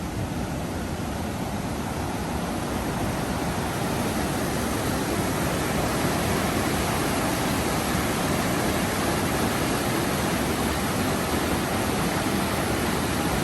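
Steady rushing roar of the New River pouring over Sandstone Falls, an even wash of water noise with no breaks.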